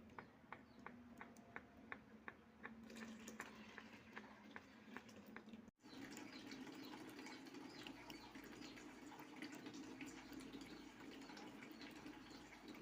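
Milk squirting into a pail as a cow is milked by hand, in quick regular squirts several a second. After a break a little before halfway, the splashing turns denser and less even.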